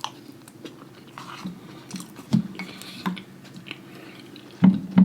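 A person chewing close to the microphone, with wet mouth clicks and lip smacks, and a cluster of louder smacks near the end.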